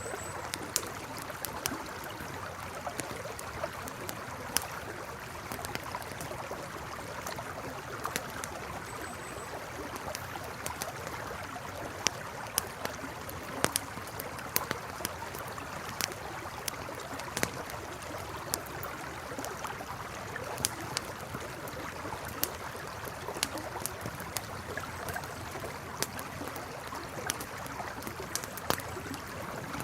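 Campfire crackling with sharp, irregular pops over the steady rush of a flowing river.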